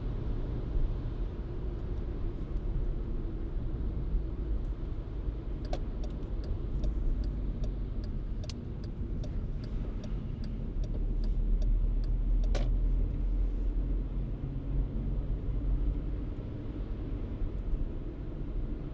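Car driving, with a steady low rumble of engine and tyre noise. About a third of the way in comes a run of short sharp clicks, roughly two or three a second, and then one louder click.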